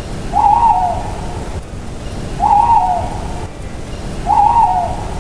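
Owl hooting: three short hoots about two seconds apart, over a steady low background rumble.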